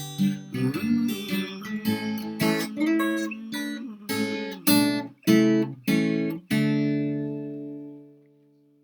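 Acoustic guitar ending a song: picked notes, then a few sharp strummed chords, and a final chord left to ring and fade out.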